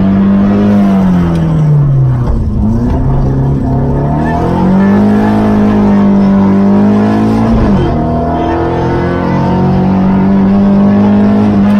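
Opel Ascona B rally car's four-cylinder engine heard from inside the cabin, pulling hard at high revs. The revs fall away and climb back up about two seconds in, then drop suddenly and pick up again near eight seconds.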